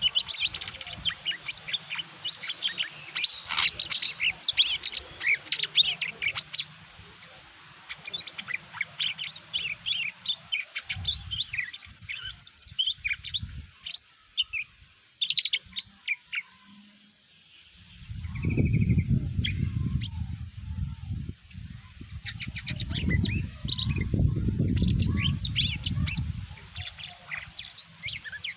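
Cucak ijo mini (green leafbird) singing a fast run of varied sharp chirps and whistles, with a short pause near the middle. A low rumble runs underneath for several seconds in the second half.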